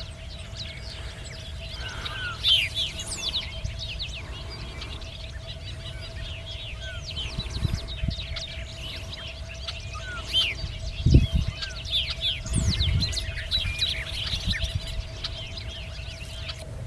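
Many small birds chirping at once, a dense chorus of short quick notes that swells and fades, over a low rumble with a few dull thumps.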